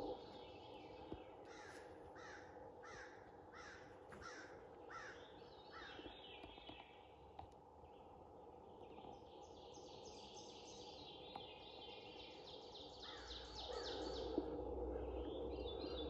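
Woodland birds calling: a quick run of about nine falling calls, roughly two a second, then longer high trills later on.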